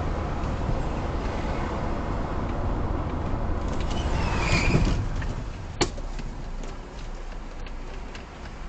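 Car driving, with engine and road noise that grows louder and carries a brief high squeal about four and a half seconds in. A single sharp knock comes nearly six seconds in, and the noise is quieter after it.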